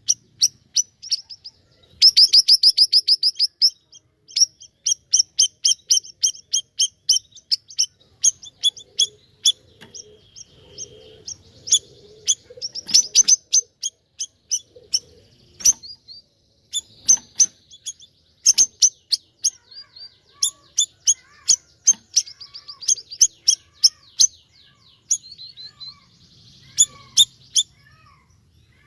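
Siri-siri (bayeman) songbird calling without pause: a long run of sharp, high chip notes in quick series, with a fast rattling burst of chips about two seconds in.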